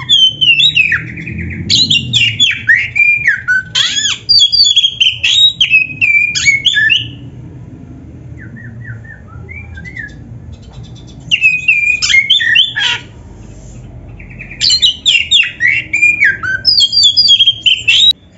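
Oriental magpie-robin singing: loud bouts of rapid, varied whistles and harsh notes, with a pause after about seven seconds, a short softer phrase, then two more bouts.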